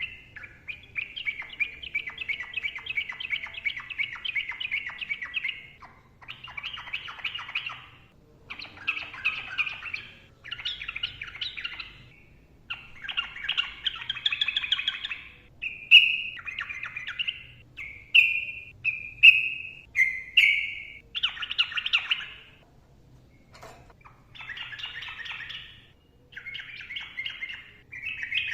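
Yellow-vented bulbul (trucukan) singing: a long, dense chattering phrase of about five seconds, then a string of shorter bubbling phrases and a few clear whistled notes, with brief pauses between them.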